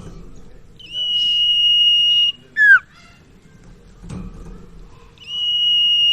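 Sirtu (cipau) songbird singing: a long, steady, high whistled note followed by a quick note that sweeps sharply downward. The phrase repeats, starting again about five seconds in.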